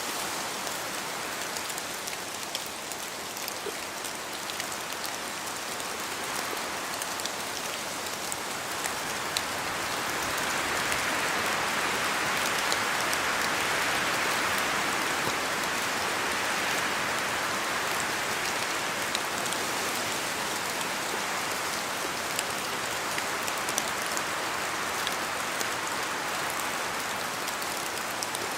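Steady rain falling in a forest, with many small drops pattering off the trees. The hiss swells louder about a third of the way in, holds for several seconds, then eases back.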